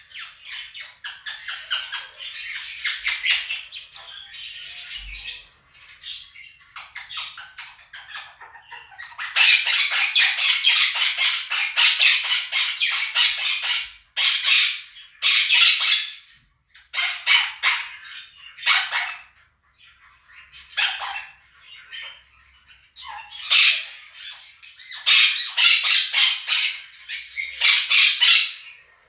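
Two monk (Quaker) parakeets squawking loudly in fast repeated calls over the softer chirping and warbling of a flock of budgerigars. The first stretch is quieter chatter, then about nine seconds in the loud squawking starts, coming in long runs with brief pauses between them.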